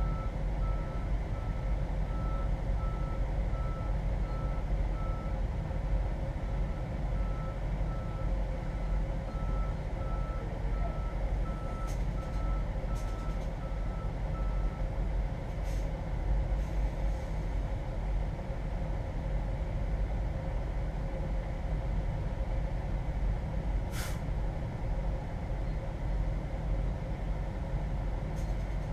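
Semi truck running with a steady low drone. An electronic beep repeats evenly until about halfway through, and a few short sharp clicks come later, the clearest one near the end.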